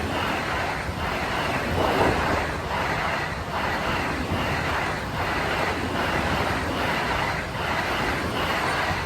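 Vande Bharat Express electric train passing close by at speed: a loud steady rush of wheels on rails, with a regular clickety-clack beat of about one and a half a second as the coaches' bogies go by.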